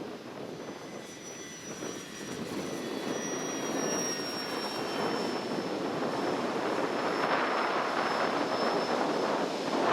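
Radio-control model airplane's motor whining as it flies past, the high whine rising slightly in pitch and then dropping. Gusty wind noise on the microphone builds louder through the second half.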